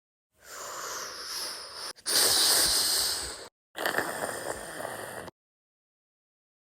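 Three short bursts of hissing, breathy noise, each cut off abruptly by dead silence; the middle one is the loudest.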